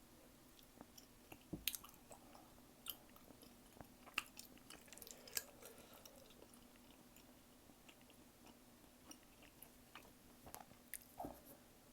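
Close-miked eating: soft wet chewing with scattered mouth clicks and smacks, busier in the first half and again near the end, with a quiet pause between. A faint steady hum sits underneath.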